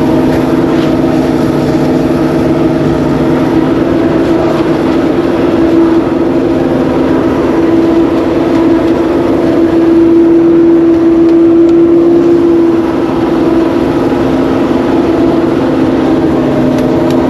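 A small engine running steadily under load, its note rising a little and growing louder for a couple of seconds past the middle.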